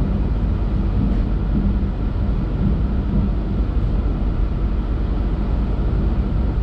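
Steady rumbling noise of a moving loco-hauled Trenitalia Intercity train, heard inside the passenger coach, with a faint hum coming and going.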